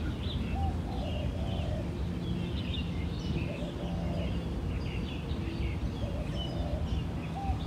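Outdoor ambience of several birds chirping in short, quick calls, with occasional lower calls, over a steady low background rumble.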